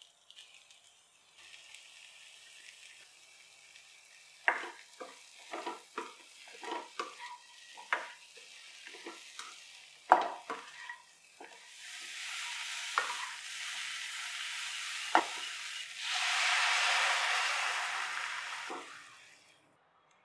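Chopped vegetables and spice masala sizzling in a hot pan while a spatula stirs them, with a run of sharp knocks and scrapes of the spatula against the pan. In the last few seconds a louder, steady sizzle as water goes into the hot pan.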